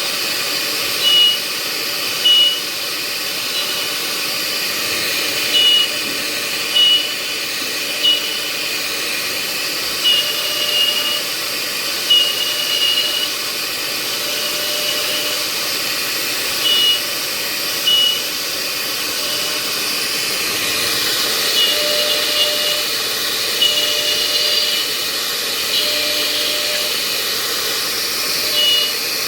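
Two-process CNC router running with a steady hiss, with short high electronic beeps now and then, a few of them held for about a second.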